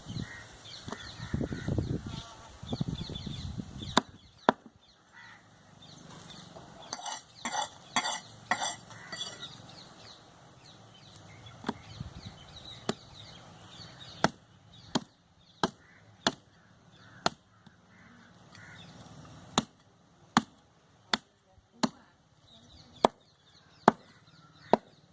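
Butcher's cleaver chopping goat meat and bone on a chopping block: single sharp strikes, spaced out at first and then coming about one a second in the second half.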